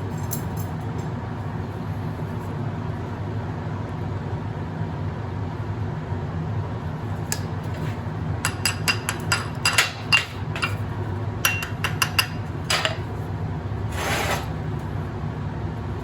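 Steady low hum with a run of sharp metallic clinks and taps of a hand tool striking steel, starting about seven seconds in, loudest near the middle, and stopping a second or two before the end.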